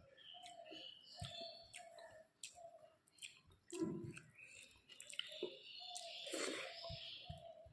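Close-miked wet chewing and mouth smacks of someone eating a rice meal with fish curry, full of small squelchy clicks. Two stronger bursts about four and six and a half seconds in.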